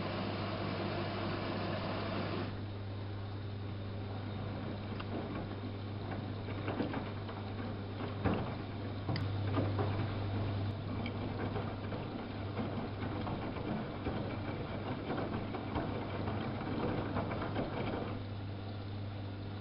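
Samsung WF71284 front-loading washing machine running: a steady low hum, with a hiss that drops away about two seconds in and irregular small knocks through the middle.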